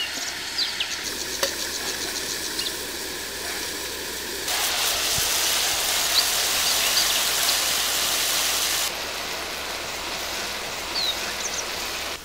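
Mushrooms frying in oil in a large iron kadai over a wood fire, sizzling steadily, loudest through the middle few seconds. Short bird chirps come in now and then.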